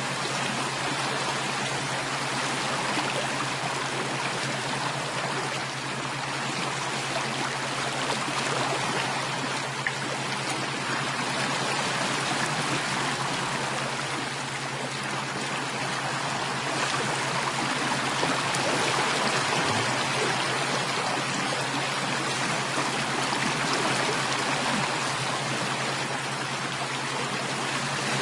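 Flowing water, a stream running and trickling as a steady, unbroken rush.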